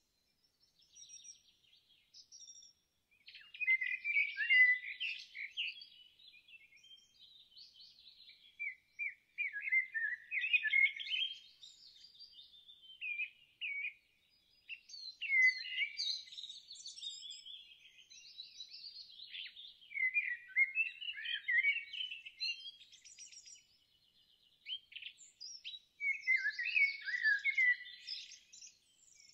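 Songbirds singing: phrases of quick chirps and trills a few seconds long, one after another with short pauses.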